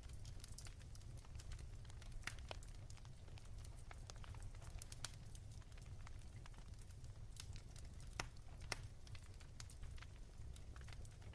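Wood fire crackling softly, with scattered sharp pops at irregular intervals over a steady low rumble.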